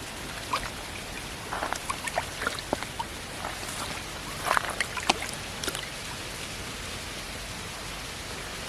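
Steady rain falling, with a scattered run of small splashes and clicks between about half a second and six seconds in.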